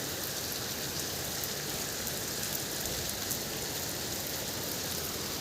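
Rain falling steadily: an even hiss with a few sharp drop ticks.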